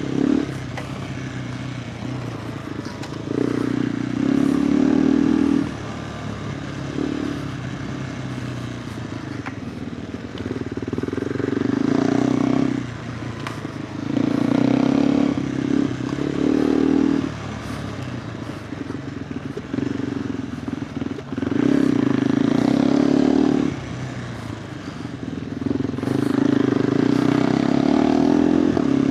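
KTM 390 Adventure R single-cylinder engine through a Norifumi Whoops slip-on exhaust while riding off-road. The engine note swells loud under throttle about five times, for two to three seconds each, and drops back between as the throttle is rolled off.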